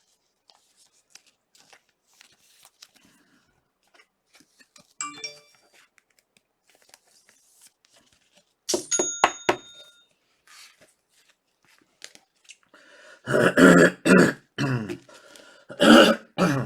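Faint rustling and clicking of trading cards being handled, with a short bright ding about nine seconds in. Near the end come two loud throat sounds from a person, not words.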